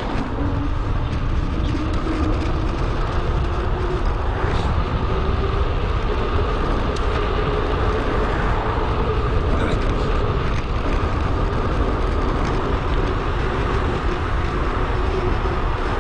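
Steady wind noise on the action camera's microphone on a moving bicycle, with rushing air and tyre noise and faint wavering tones, played back sped up.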